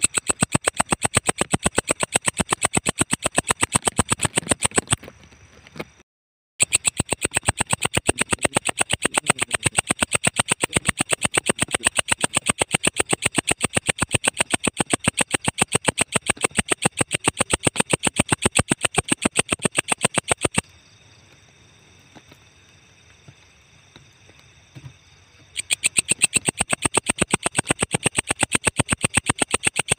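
Walang ecek insect stridulating: a rapid, even train of high, buzzy clicking pulses. It breaks off about five seconds in and resumes a moment later. It pauses again for about five seconds past the two-thirds mark, then starts up again.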